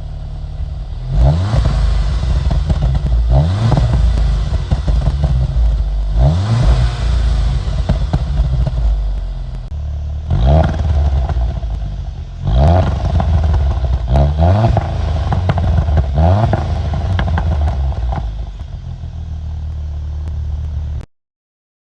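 Exhaust of a VW Golf Mk7 R's turbocharged 2.0-litre four-cylinder revving again and again, each rev a quick rising sweep in pitch with some crackle. It keeps on at a steadier note between about 7 and 10 s in, and cuts off suddenly near the end.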